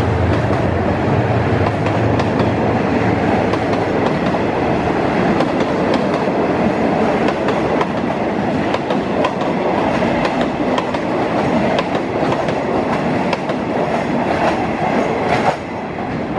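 Passenger coaches of a train rolling past and into a tunnel, their wheels clacking over the rail joints. The sound drops off suddenly near the end as the last coach enters the tunnel.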